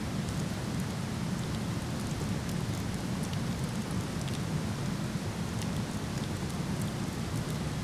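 Waterfall rushing steadily with a deep, even roar, and faint, scattered crackles and pops from a burning wood fire.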